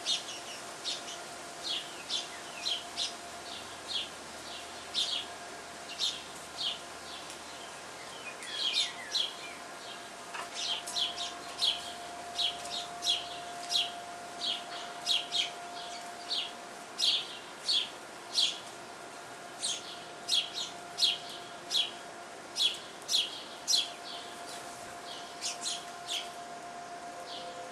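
Small songbirds chirping: short, high chirps repeated about once or twice a second, steadily and without pause.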